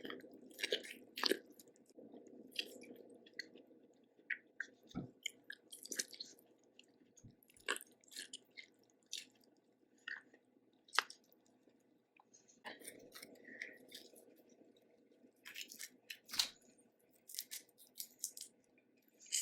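Close-up chewing and wet mouth smacks of someone eating a Cajun seafood boil, with many short sharp clicks scattered throughout.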